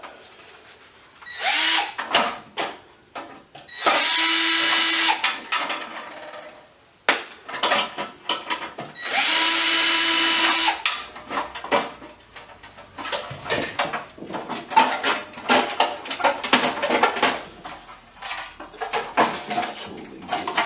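Cordless drill-driver run in three bursts at a steady pitch, the first short and the next two over a second each, typical of backing screws out of scrap. Between and after the bursts, metal parts clink and clatter as they are handled.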